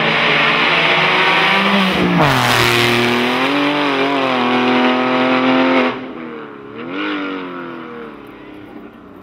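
Porsche flat-six race car at full throttle on a hill climb, its engine pitch dropping sharply about two seconds in, then holding high revs until it cuts off suddenly about six seconds in. A brief rev follows near seven seconds as the sound fades.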